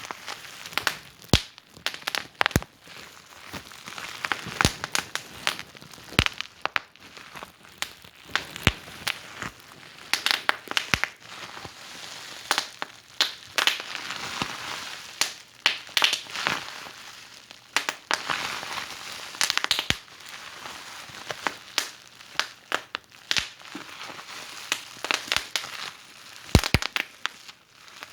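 Wood fire in a fireplace crackling: irregular sharp pops and snaps over a soft, steady hiss.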